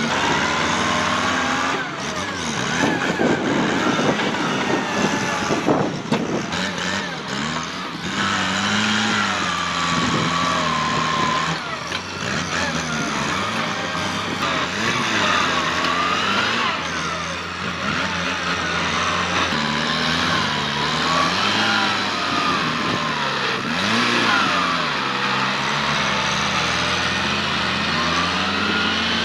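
Kubota tractor's diesel engine running under heavy load, its pitch rising and falling repeatedly as the load changes while pushing bush. A stretch of crackling noise lies over the engine from about two to seven seconds in.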